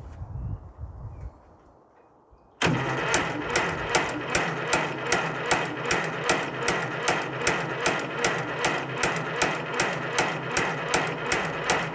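Engine being cranked on its starter motor without catching: a steady starter whine that begins abruptly a couple of seconds in, with even compression pulses about three times a second.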